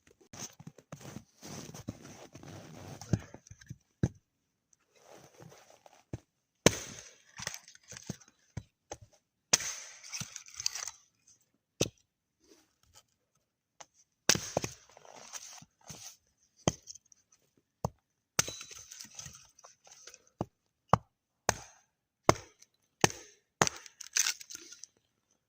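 Irregular sharp cracks and knocks with crackly rustling between them: dry wood being chopped and broken up for a fire.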